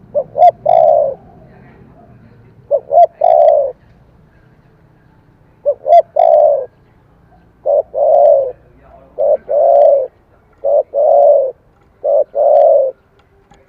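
Spotted dove cooing in seven phrases, its voice of the type dove keepers call 'thổ cấn sấm'. The first three phrases are two short notes followed by a long coo; the last four are one short note and a long coo.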